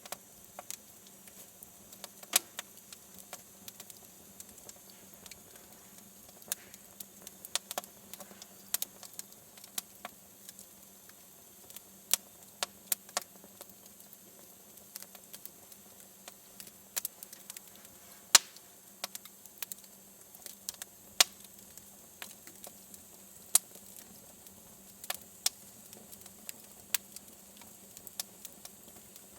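Wood fire in a fireplace crackling: irregular sharp pops and snaps, a few much louder than the rest, over a faint steady hiss and a faint low hum.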